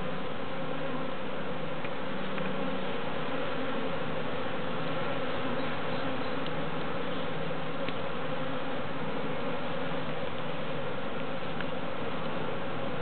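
Honeybee swarm buzzing: a dense, steady hum of many bees together. The bees are very active and agitated from being disturbed.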